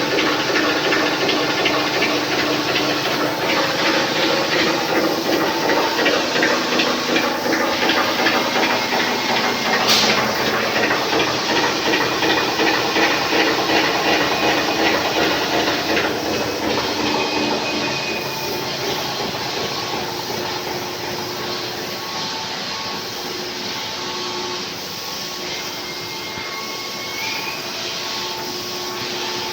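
Pipe-making factory machinery running steadily: a dense mechanical din with hiss and several steady whining tones. A single sharp click comes about ten seconds in, and the noise eases a little after about seventeen seconds.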